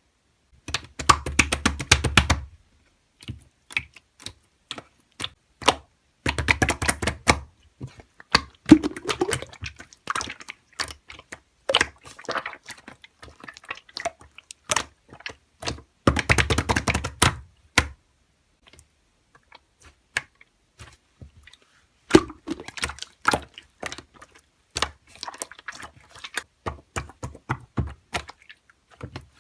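Slime being squeezed and pressed by hand, giving clicking, crackling air-bubble pops. They come in three dense bursts with scattered single clicks between.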